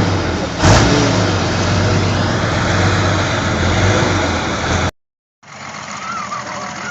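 Motorcycle engine running and revving, with a sharp crack about a second in. The sound cuts off abruptly about five seconds in, and a much quieter scene follows.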